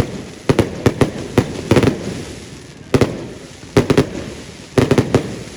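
Fireworks going off: a run of sharp bangs at irregular spacing, some in quick clusters of two or three, each trailing off in an echo.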